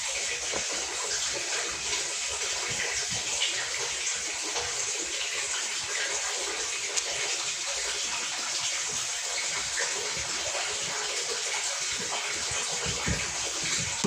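A steady stream of running water, even and unbroken throughout.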